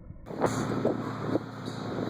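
Wind buffeting the microphone over a steady low mechanical hum.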